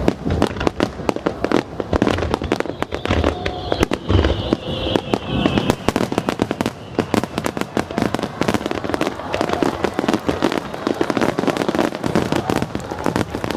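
Aerial fireworks display: a dense, rapid run of crackling pops and bursts.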